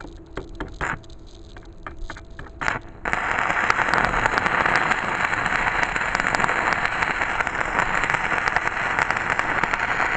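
Stick (covered-electrode arc) welding from a Shindaiwa SBW170D-LOW battery welder. A few short sputters come as the electrode is struck. About three seconds in the arc catches and burns on as a steady, loud crackling sizzle.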